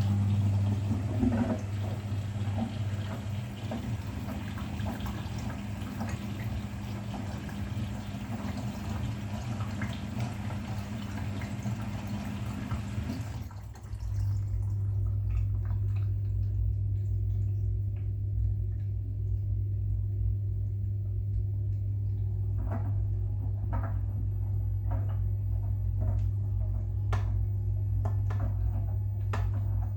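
Bosch Serie 6 washing machine taking in water with a steady rushing hiss over a low hum. About halfway through the inflow stops abruptly, leaving a steady low hum and rumble with scattered light knocks.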